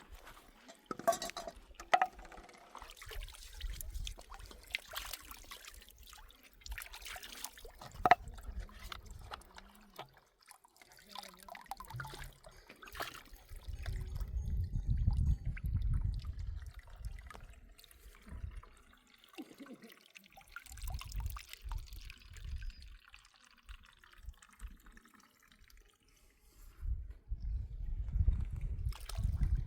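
Water trickling and dripping, broken by scattered sharp knocks and stretches of low rumble.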